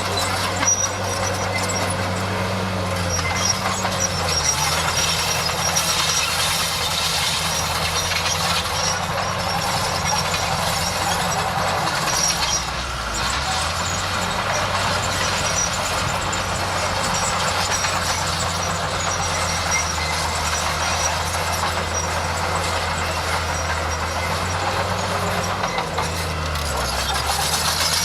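Bulldozer's diesel engine running steadily under constant mechanical noise. Its engine note dips and recovers three times: a few seconds in, around the middle, and near the end.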